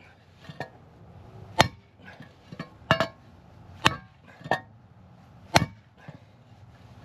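Heavy hammer striking a hardened-steel driver to drive a pressed-in front wheel bearing without a press: about seven sharp, ringing metal blows, roughly one a second, alternating heavier and lighter hits.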